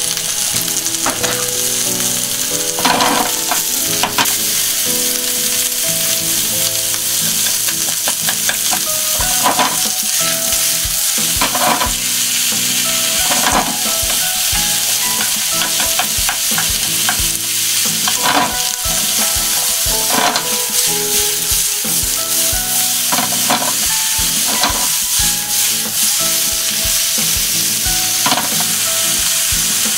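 Sliced potatoes, bacon, sausage and onion sizzling in an oiled frying pan over high heat, a steady hiss. From about a third of the way in come repeated scrapes and knocks every second or two as the food is stirred and the pan is tossed.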